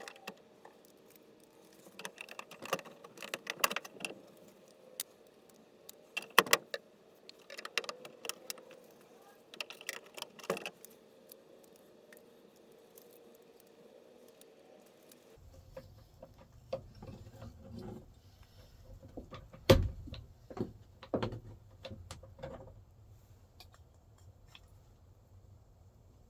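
Scattered metallic clicks, clinks and rattles of hand tools and door parts being handled while working on a truck door. About two-thirds of the way through, the steady background hum gives way to a low rumble.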